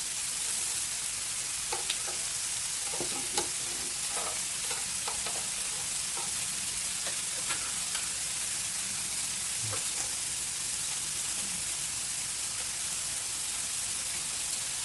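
Grilled beef and shrimp sizzling with a steady hiss, with a few light clicks from utensils.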